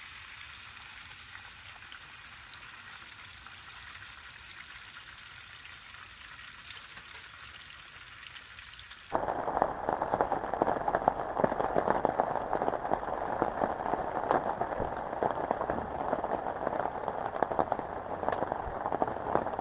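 Heavy rain falling steadily as a fine hiss; about nine seconds in it abruptly becomes much louder and closer, a dense patter of raindrops.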